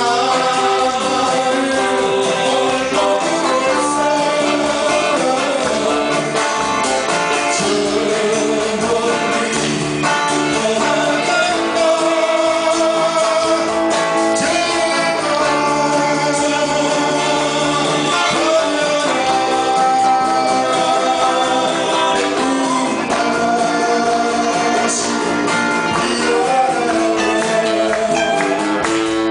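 A live band playing a Korean pop song: electric guitars, bass, drums and keyboard, with a voice singing the melody over them.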